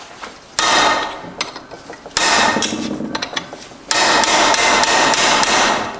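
Three hammer blows on metal transmission parts, about a second and a half apart, each leaving a metallic ring that dies away.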